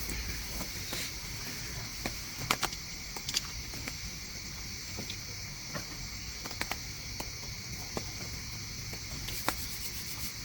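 Night forest ambience: a steady high chirring of insects, over a low rush of rain and a river, with a few scattered sharp taps of drops.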